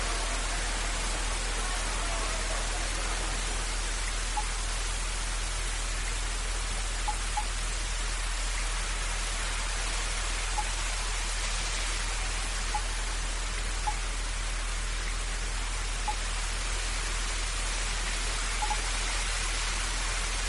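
Rain sound effect: a steady, even hiss of falling rain, with a few faint drip-like ticks scattered irregularly through it.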